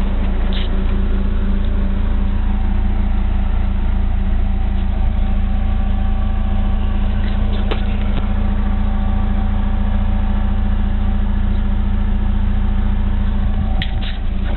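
1998 Mitsubishi Eclipse RS's 420A four-cylinder engine, fitted with a cold air intake, idling steadily, with a few faint clicks.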